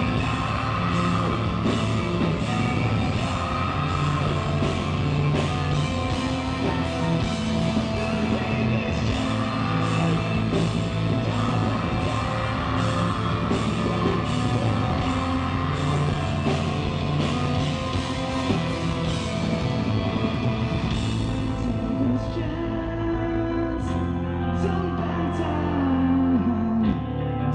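A heavy metal band playing live and loud: distorted guitars, bass, drums with steady cymbal hits, and a singer. After about 22 seconds the drums thin out, and near the end a low chord is held while a note slides down in pitch.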